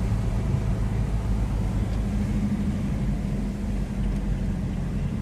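A steady low engine rumble with an even hum, unchanging throughout.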